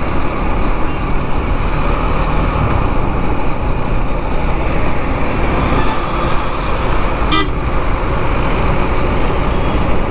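KTM Duke 390 riding through city traffic: steady road, wind and engine noise, with a short vehicle horn toot about seven seconds in.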